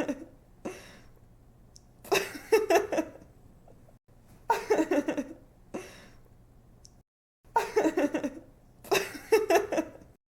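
A young woman giggling in short fits of laughter, four bursts a couple of seconds apart, with a quick breath after some of them.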